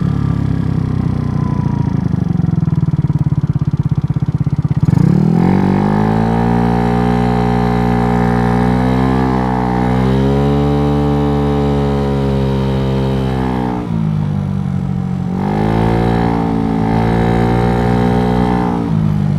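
Dongfang DF50SST scooter's 88cc big-bore engine under way. It runs steadily at first, revs up sharply about five seconds in and holds high revs, eases off around fourteen seconds in, then revs up again and eases off near the end.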